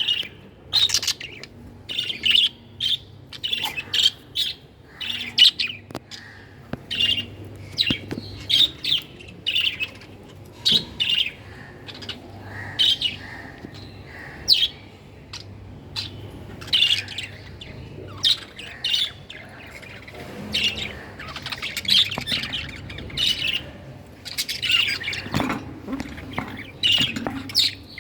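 Budgerigars chirping and squawking: a run of short, sharp chirps about once or twice a second, with a denser flurry of calls in the last few seconds.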